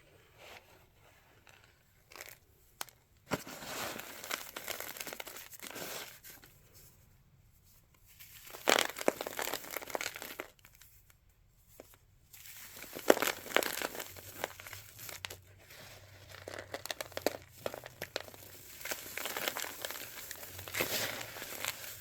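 Packed cornstarch mixed with Ajax powder being crunched, a dry, dusty crackling crunch. It starts about three seconds in, comes in bouts with short pauses, then runs almost without a break through the second half.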